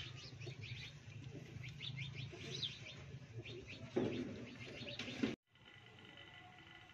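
Small birds chirping over and over above a low steady hum, with a thump about four seconds in. The sound cuts off abruptly a little after five seconds, leaving only a faint steady hum.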